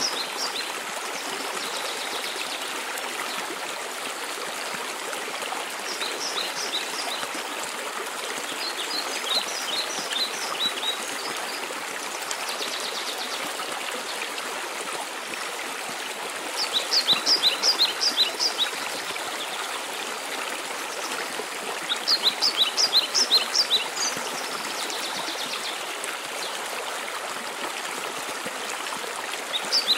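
Waterfall water rushing steadily. A songbird sings short phrases of quick, high, repeated notes over it, five or six times, a few seconds apart.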